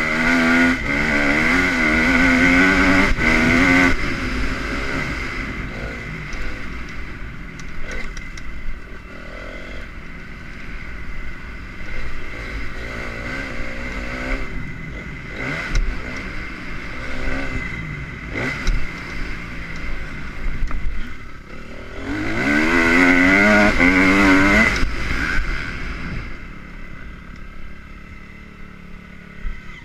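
Honda CRF250 motocross bike's single-cylinder four-stroke engine revving up and down as it is ridden, loudest for the first few seconds and again for a few seconds about three-quarters of the way through, fainter in between.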